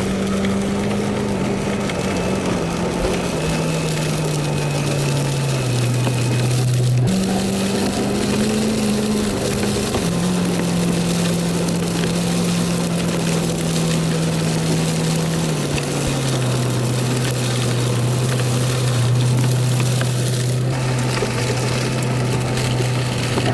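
Plow truck's engine running, heard from inside the cab, its pitch stepping down and then jumping back up several times as the truck drives.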